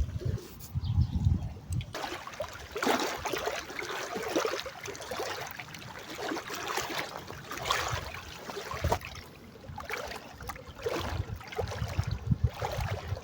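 Water lapping and splashing in irregular, uneven bursts, with low rumbling gusts in the first two seconds.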